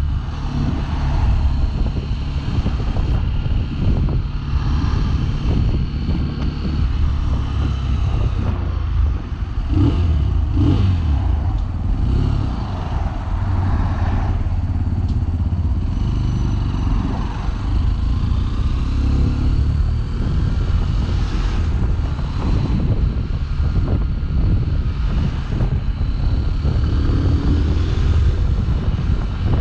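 Sinnis Terrain 125 motorcycle's single-cylinder engine running steadily on the move, picking up revs about ten seconds in.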